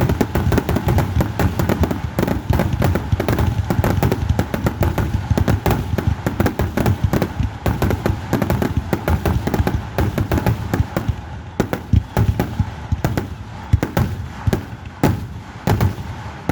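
Fireworks display going off in a dense, rapid barrage of bangs and crackling, many bursts a second, then thinning into separate booms over the last few seconds.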